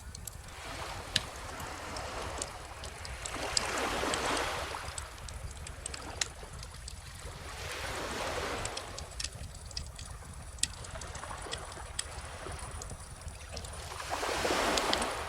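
Calm ocean waves washing in three slow swells, about every five seconds, the last the loudest, over the sharp pops and crackles of a wood bonfire.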